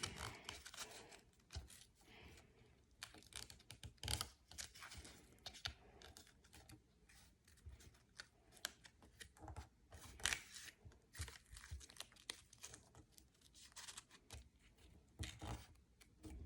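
Sheet of A4 paper being folded and creased by hand: faint, irregular rustling and crinkling with short sharper crackles.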